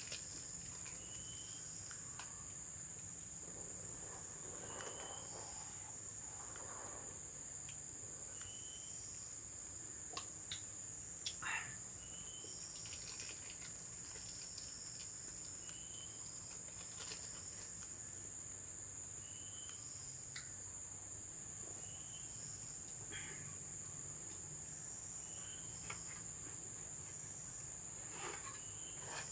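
Steady high-pitched insect chorus, crickets or similar, droning without a break, with a short chirping call repeating about every two seconds and a few faint clicks near the middle.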